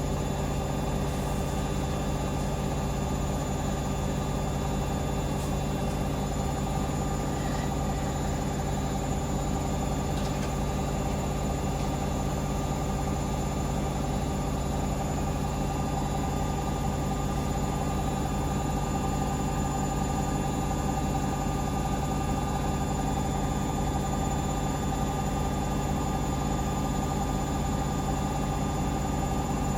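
Hoover Link washing machine on spin only, its drum held at full 1400 rpm speed: a steady, unchanging hum with a thin high whine over it.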